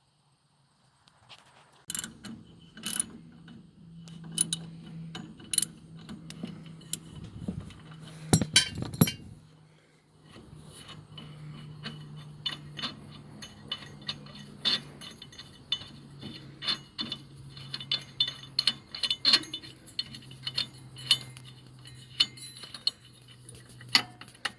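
Ratchet wrench and metal tools clicking and clinking in irregular runs as bolts on a riding mower's engine are worked loose. A steady low hum runs underneath and drops out briefly partway through.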